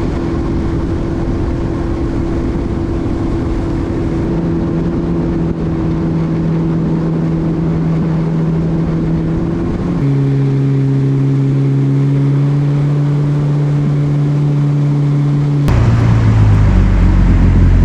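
Personal watercraft engine running at a steady cruising speed over the rush of water. The engine note holds steady, drops to a lower pitch about ten seconds in, and changes again near the end.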